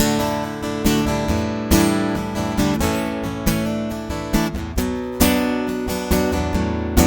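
Acoustic guitar strumming chords at a steady, unhurried pace: an instrumental passage of a country-style song, with no singing.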